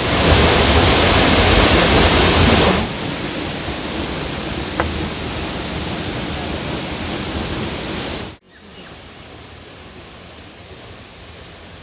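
Waterfall rushing: a steady wash of falling water, loudest for the first three seconds, then softer, and cutting off abruptly about eight seconds in to a fainter hiss. A single short tick about five seconds in.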